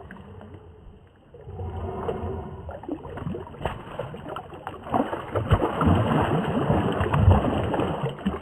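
River water splashing and sloshing irregularly around a large hooked pike as it thrashes near the surface while being landed, with knocks and low rumbling. It gets louder and busier in the second half.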